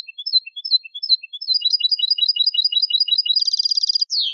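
European goldfinch song: a three-note figure repeated about three times a second, then a faster trill, a buzzy rattle near the end, and a quick falling note just as it cuts off.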